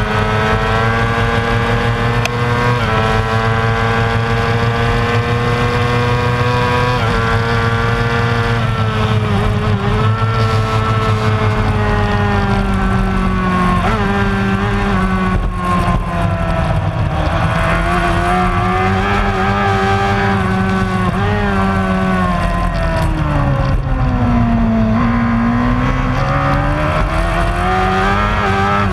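Superbike racing motorcycle engine running hard at high revs. The pitch steps and climbs through gear changes, then falls off and sinks lowest about three-quarters of the way through, then climbs again as it accelerates.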